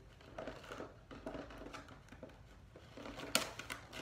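Faint crinkling and clicking of a toy's box packaging being worked open by hand, with one sharper click about three seconds in.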